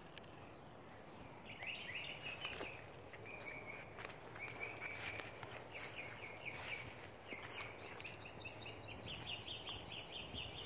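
Faint outdoor background with birds chirping: short high notes repeated in series, a quicker run of notes near the end, and a few soft clicks.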